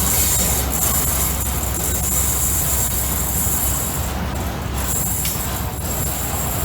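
Freight train passing close by: a steady rumble of wheels on rail, with a thin high-pitched squeal that comes and goes.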